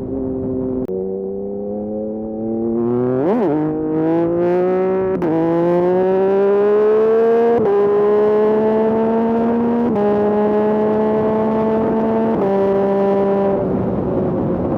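Yamaha MT-09 SP's 890 cc inline-three engine through an aftermarket Dominator exhaust, accelerating hard up through the gears. The pitch climbs and drops sharply at each of about five upshifts, with a quick rev spike about three seconds in. The throttle eases off near the end.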